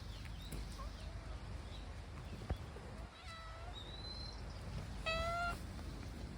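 Domestic cat meowing twice: a short, fainter meow about three seconds in and a louder one about five seconds in.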